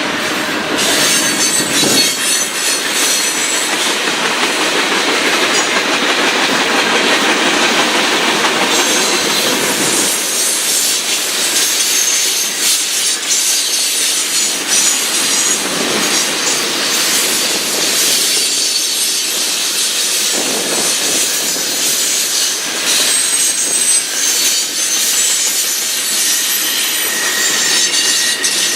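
Norfolk Southern freight train's cars rolling steadily past, wheels clacking over the rails with a high-pitched wheel squeal.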